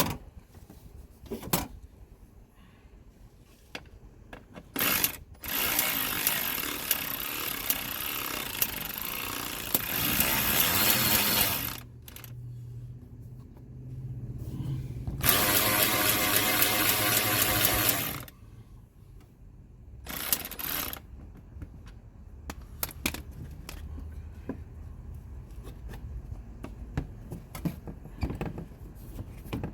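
Handheld power tool running in a few bursts: a long run of about six seconds, then another of about three seconds, with scattered clicks and knocks of tool and metal between them.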